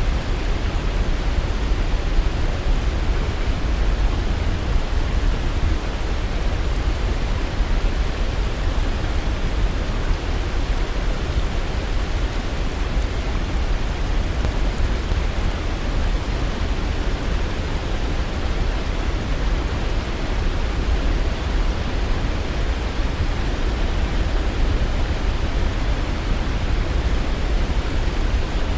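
Waterfall: steady, unbroken rushing of falling water with a heavy low rumble.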